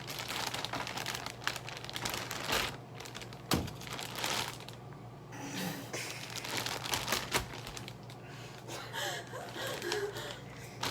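Crinkling, rustling handling noise with scattered clicks and knocks, and one louder knock about three and a half seconds in.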